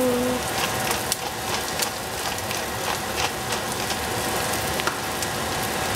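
Eggplant and zucchini frying in oil in a pot: a steady sizzle with scattered crackles and pops.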